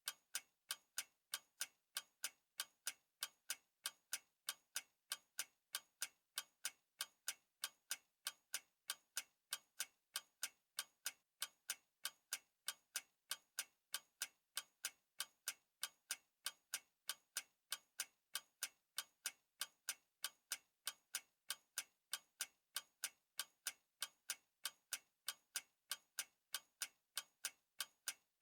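Clock ticking, sharp even ticks at about three a second, steady throughout.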